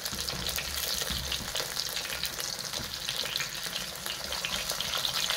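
Beef patties frying in oil in a non-stick frying pan: a steady sizzle with a dense crackle of spitting fat.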